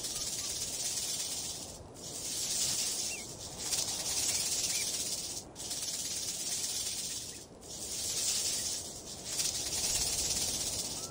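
Rattlesnake shaking its tail rattle: a dry, buzzing rattle in bouts of about one and a half to two seconds, each broken off by a short pause. It is the snake's defensive warning.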